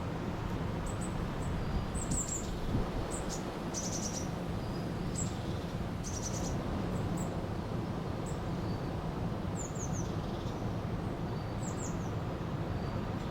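River water flowing steadily, with small birds giving short, high chirps again and again over it, some of them falling in pitch.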